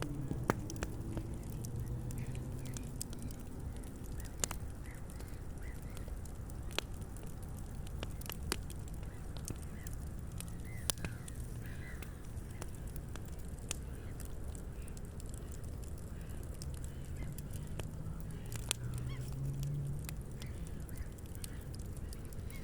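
Wood campfire crackling, with sharp, irregular pops scattered throughout.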